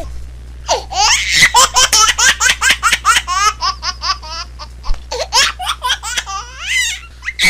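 A baby laughing hard, in a long run of quick, high-pitched bursts of laughter, several a second. It starts just under a second in and eases off near the end.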